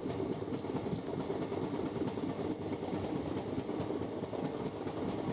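Passenger train running at speed, heard from an open coach doorway: a steady rumble with a dense clatter of wheels on the rails.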